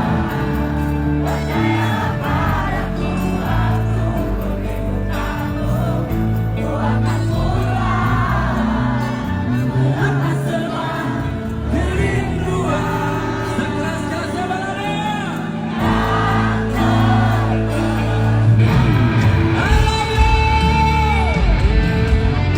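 Live band music with a lead vocal and a crowd audible behind it; the singer holds one long note about 20 seconds in.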